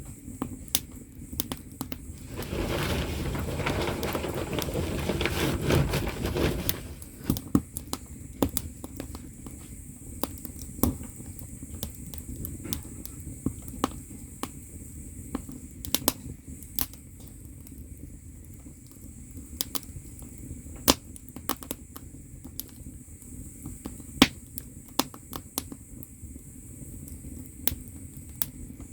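Firewood crackling in an agungi, the wood-fired firebox under a Korean ondol floor, with sharp pops at irregular intervals. From about two to seven seconds in, a louder rushing, rustling noise rises over the crackle and then drops away.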